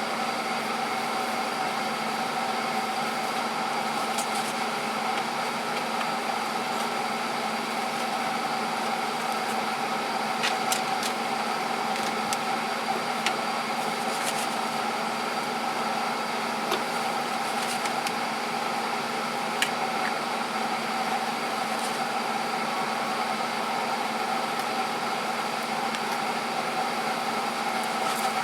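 Steady mechanical hum of a running motor or fan, holding several constant pitches, with a few faint light clicks and taps scattered over it.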